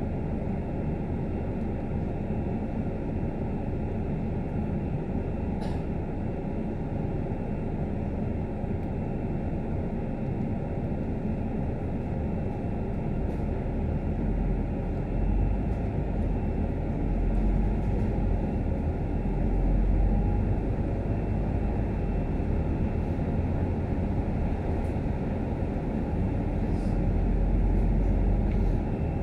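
Scania K310UD double-decker bus riding along, heard from inside: steady engine and road noise. A deep low rumble grows stronger about halfway through and swells again near the end.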